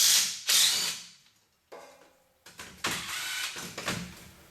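Metal hand-tool clicking and clatter on the clamp holding a truck's parking brake cable, as a ratchet-like tool is worked. The clicking stops about a second in and starts again, quieter, just past halfway.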